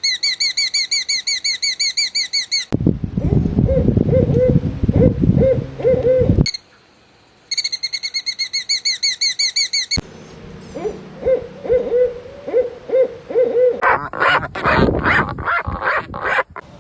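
Birds calling in several clips joined by sudden cuts: a fast run of repeated high-pitched calls, about eight a second, and, in other clips, series of low hoot-like notes.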